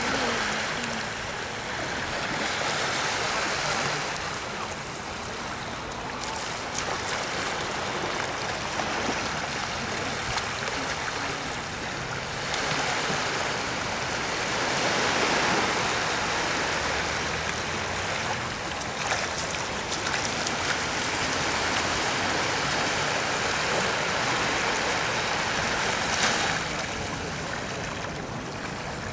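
Small waves washing in and drawing back over the shore, a hiss of water that swells and fades every few seconds.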